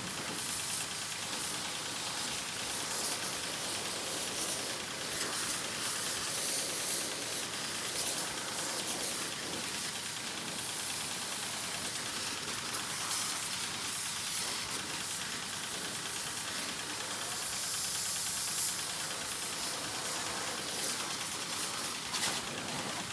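A spray jet hissing against the motorcycle as it is washed. The hiss is steady, high and bright, and swells and fades as the jet is moved about, with a louder stretch about three-quarters of the way through.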